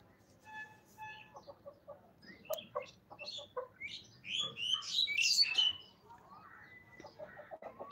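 Birds chirping and calling in a run of short, high notes. The calls grow louder and turn into sliding, warbling calls from about four to six seconds in.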